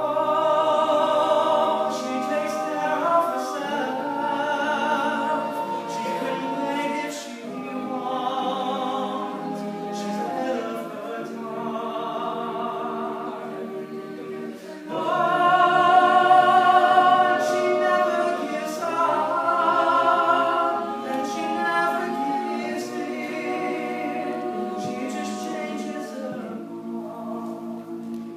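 Male a cappella group singing in close harmony, with no instruments: held chords in phrases of a few seconds, swelling loudest about halfway through.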